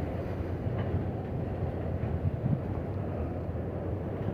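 Freight train of autorack cars rolling past, a steady low rumble of steel wheels on the rails.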